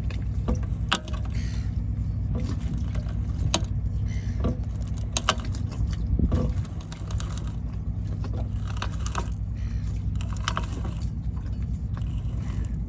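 Yacht's wheel steering gear inside the opened steering pedestal creaking and groaning as the wheel is turned, with scattered clicks and knocks, over a steady low hum. The noises come from steering that has gone very stiff.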